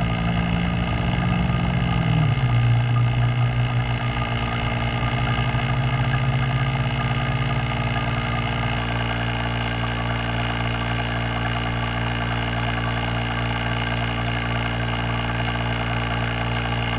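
Electric ZENY rotary-vane vacuum pump switched on and running with a steady hum, its pitch settling lower about two seconds in. It runs smoothly from the start, well within the 2 to 30 seconds the instructions allow for it to smooth out.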